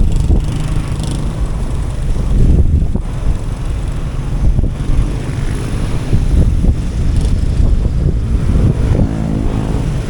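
Motorcycle on the move: a steady, loud rumble of engine and road noise. Near the end a brief pitched engine note stands out.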